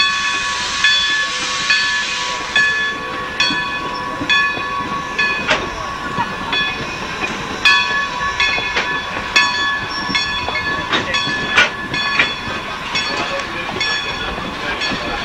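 Steam-hauled passenger train rolling past: a run of short, high squeals repeating about every half second to a second, scattered sharp clicks from the wheels and couplings, and a hiss of steam in the first few seconds.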